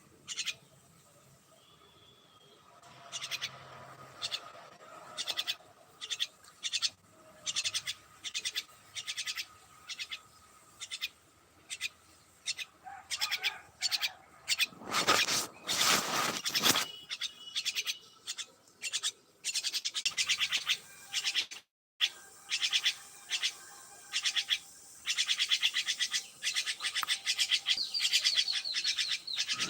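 Pet birds chirping in many short, rapid calls that grow busier and louder after the first few seconds. A louder rustling noise runs for about two seconds midway.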